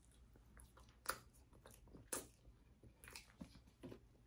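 Faint close-miked chewing of a forkful of fettuccine Alfredo, with a few sharp wet mouth clicks about a second apart.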